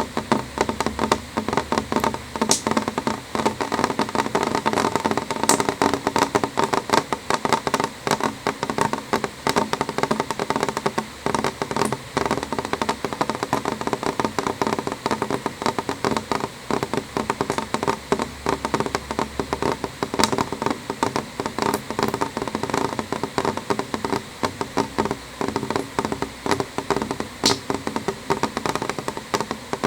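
Rain on a window: a steady, dense patter of drops tapping on the glass, with a few sharper single drop hits standing out here and there.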